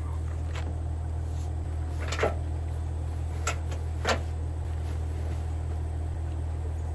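A vehicle engine idling with a steady low hum, with a few sharp clicks and knocks over it, about four in the first four seconds.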